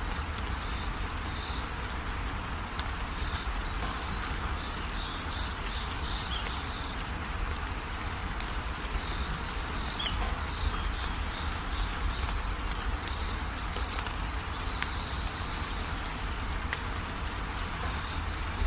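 Steady rain with a low rumble underneath, and a small bird chirping in quick repeated series over it, pausing now and then.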